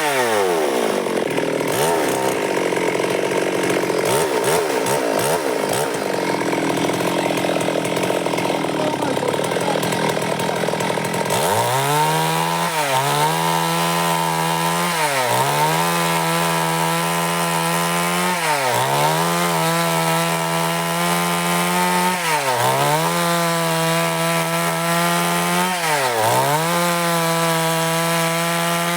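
Stihl MS 382 two-stroke chainsaw. It drops off high revs at the start and runs low for about ten seconds, then revs up to full speed and holds there. Its pitch dips and recovers every three to four seconds as the bar is pushed through the wood.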